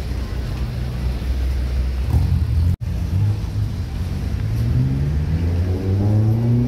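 Car engines running at a low steady rumble. After an abrupt cut, a BMW E46 M3's straight-six pulls away, its note rising steadily over about three seconds.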